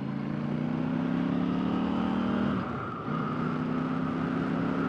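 KTM 890 Duke R parallel-twin motorcycle engine running steadily under way, its note rising slightly, then dipping and cutting out briefly about two and a half seconds in before picking up again.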